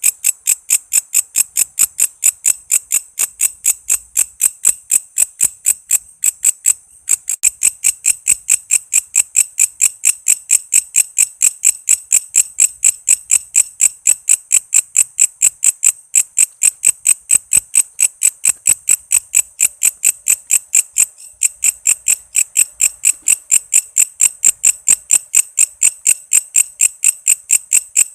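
Walang kece, a katydid, singing a steady run of rapid, evenly spaced high chirps, about five a second, with a brief pause about seven seconds in.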